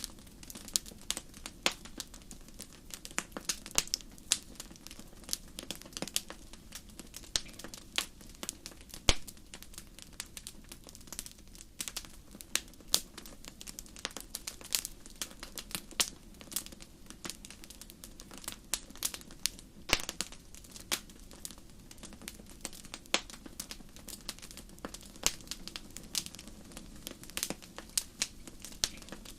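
Wood fire burning in a fireplace: irregular crackles and sharp pops, several a second, over a low steady rush of flame.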